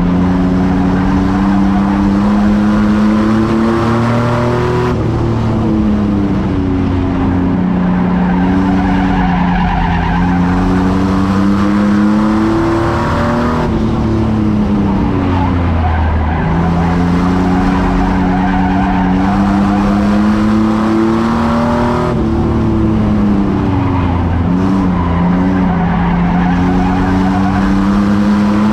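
Racing truck engine running at high revs, its pitch dipping and climbing back every eight seconds or so as it eases off and gets back on the throttle around the track.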